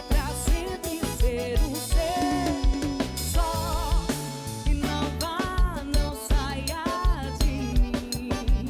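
Live band playing an instrumental passage: a steady drum-kit beat and bass line under a wavering melodic lead.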